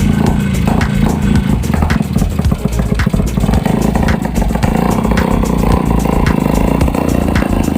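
A 40-year-old boat engine running loud and rough, with rapid clattering over a deep rumble. It picks up a little about halfway through.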